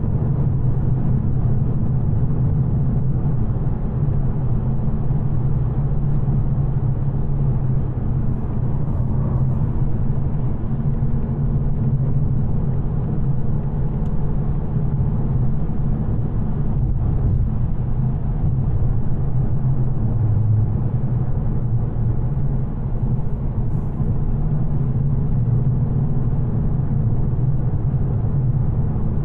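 2024 Ford Mustang GT's 5.0-litre V8, still on its stock headers, running with the car under way, a low steady drone with little change in pitch.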